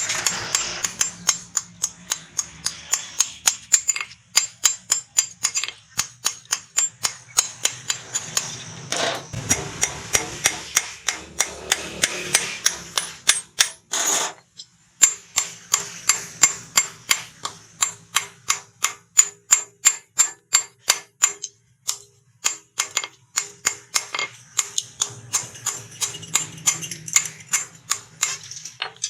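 Hammer blows on hot steel over an anvil, about two to three strikes a second, each with a short metallic ring, stopping briefly about halfway and again about three-quarters through. A low steady hum runs underneath.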